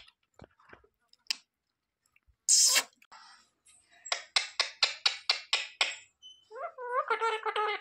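Pet parrot calling: a harsh squawk, then a quick run of about nine short sharp chirps, and near the end a pitched, wavering chattering call.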